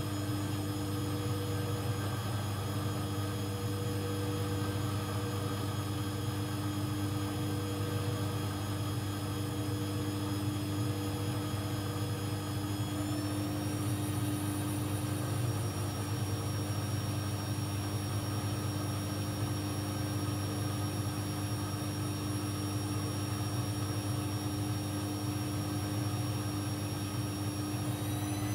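AEG Lavamat 1400 washing machine running, a steady low hum under a high motor whine that steps up in pitch about halfway through and again near the end.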